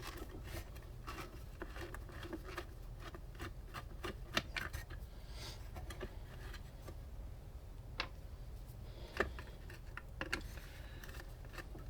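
Screwdriver working screws out of a vintage Vornado fan's metal housing: scattered small metal clicks and scrapes, with a few sharper clicks about four, eight and nine seconds in.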